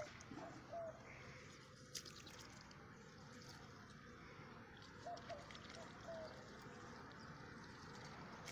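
Faint water sounds of a domestic goose dabbling and foraging in a shallow puddle, with a single sharp click about two seconds in and a few very short, soft tones.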